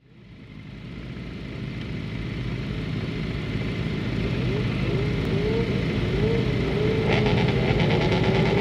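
Yamaha R6 inline-four and the surrounding race bikes on the starting grid, idling with revs being blipped up and down; the sound fades in over the first couple of seconds. From about seven seconds in, a louder, rougher engine note joins as the revs are held higher.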